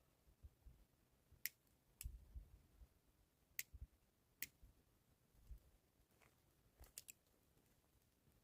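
Near silence broken by a handful of faint, sharp clicks spaced a second or more apart, with a few soft low knocks between them.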